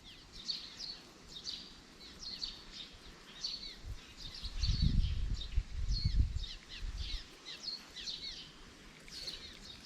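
A frog calling with short, high chirps repeated about once or twice a second. A low rumble comes through from about halfway in for a few seconds.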